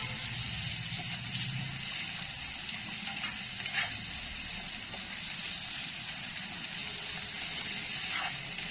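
Tomatoes and masala sizzling in oil in a nonstick kadai while a spatula stirs and scrapes through them, with a few light knocks of the spatula on the pan.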